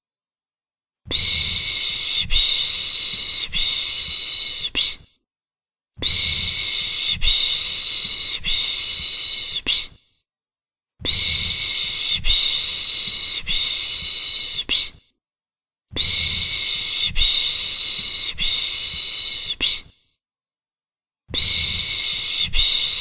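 Soothing 'piş piş' shushing hiss for calming a baby, repeated in bursts of about four seconds with a second of silence between them, each burst pulsing gently about once a second.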